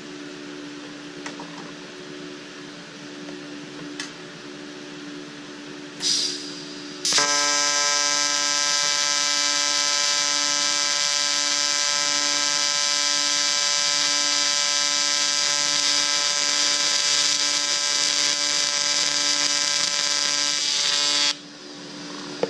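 AC TIG welding arc on aluminum: a loud, steady electric buzz that starts about seven seconds in after a short hiss, holds for about fourteen seconds, and cuts off suddenly. A faint machine hum runs underneath.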